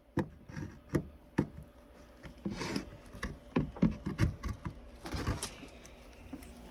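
Irregular light knocks, clicks and short scrapes of a metal air tool being handled and fitted over a nail in wood, with no shot fired.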